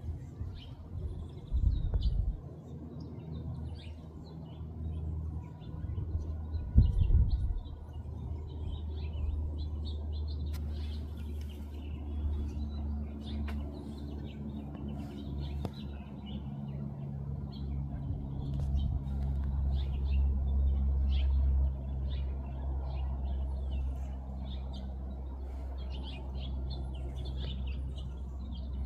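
Small birds chirping and tweeting repeatedly, with short high calls over a steady low rumble. There are two louder low thuds, about two seconds in and about seven seconds in.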